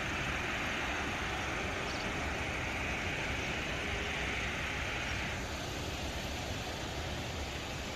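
Airbus A380-841 airliner's jet engines heard as a steady rushing noise over a low, unsteady rumble; a higher hiss in the noise drops away about five and a half seconds in.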